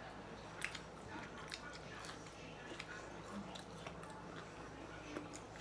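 Faint chewing of fried chicken nuggets, with scattered small clicks.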